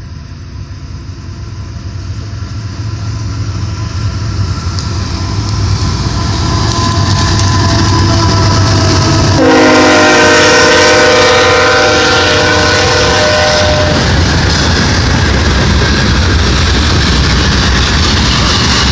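CSX freight train approaching, its rumble growing steadily louder. About halfway through the locomotive sounds a loud multi-tone air horn for several seconds as it passes. The steady rumble and clatter of the cars rolling by follows.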